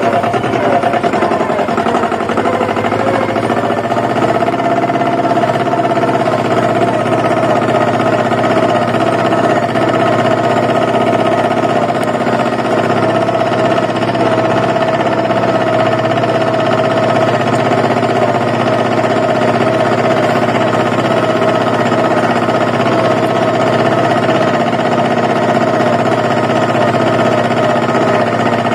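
Compact tractor's engine running steadily at a constant speed while driving, loud and even throughout.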